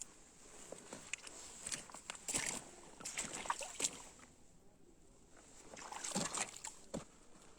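Water sloshing and splashing in several short irregular bursts, with small knocks and clicks among them.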